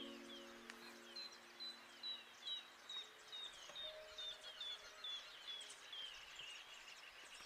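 A faint ambient soundtrack: short high chirps falling in pitch, about two a second, over a low held chord that swells in at the start.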